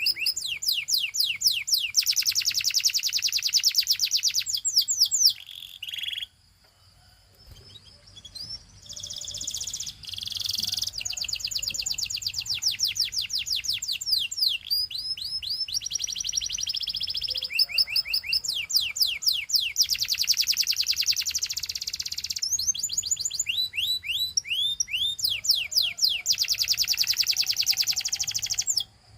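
Domestic canary singing: fast trills of rapidly repeated high notes alternating with runs of quick down-sweeping chirps, with a short pause about six seconds in.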